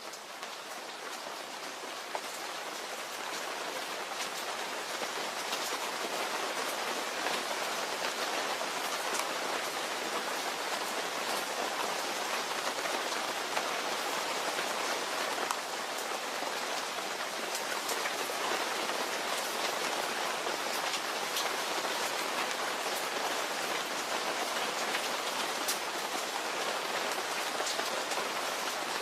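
Steady rain falling, a dense even hiss with individual drops ticking on a surface. It swells in over the first few seconds, then holds steady.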